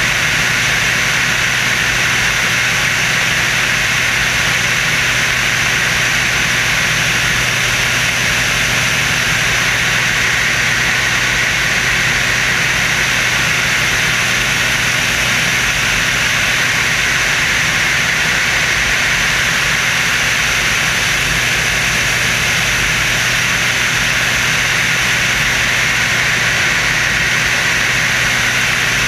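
Screamin' Sasquatch jet-assisted Waco biplane in flight, heard on board: a loud, unchanging drone of engine and rushing air with a steady low hum.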